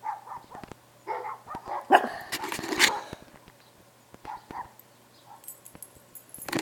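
A dog barking several times, loudest about two to three seconds in, then quieter.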